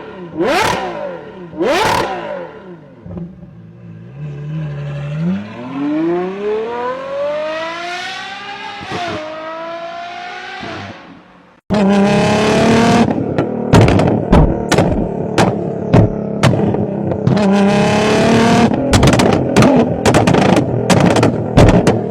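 Car engines in a run of separate clips: three quick throttle blips, then an engine accelerating hard with its pitch climbing and dropping at two gear changes. After a sudden cut comes a louder engine revving with many sharp crackling pops.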